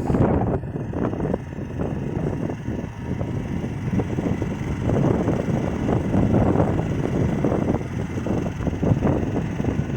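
Engine of a Neva MB-23 walk-behind tractor running steadily as it pushes snow with its blade, with wind buffeting the microphone.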